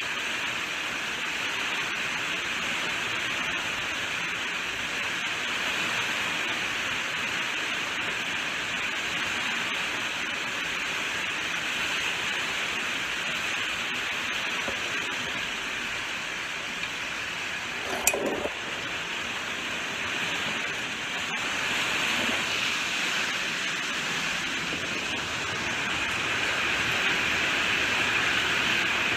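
Steady rainfall, an even hiss of drops. About two-thirds of the way through comes a single louder, sharp tap, and the rain swells slightly near the end.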